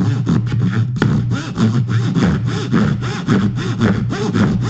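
Backsaw cutting dovetails in hardwood by hand, in quick, even rasping strokes, about three to four a second, with a sharp click about a second in.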